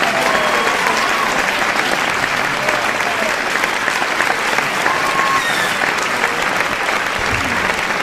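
Large audience applauding steadily in dense, continuous clapping, with a few scattered voices shouting out over it.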